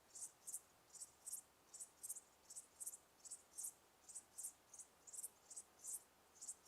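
Cricket chirping: short, high chirps repeated about three times a second in uneven pairs and threes, over a faint hiss.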